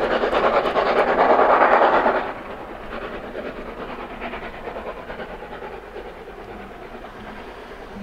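Train double-headed by a steam tank locomotive and a Class 24 diesel climbing a gradient: a steady rumble and hiss of exhaust and running gear, loud for about two seconds, then dropping suddenly and fading as it draws away.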